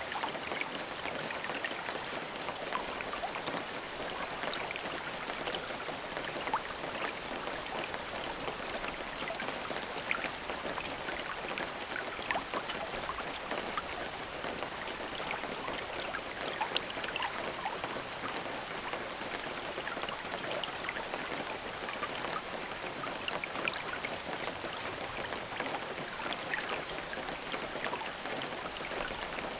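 Steady rain falling: an even hiss with many small, irregular drop ticks on a surface.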